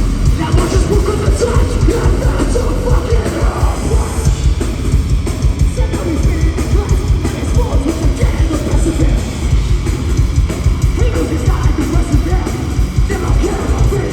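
Heavy metal band playing live at high volume: a dense, bass-heavy wall of distorted guitars and drums with yelled vocals.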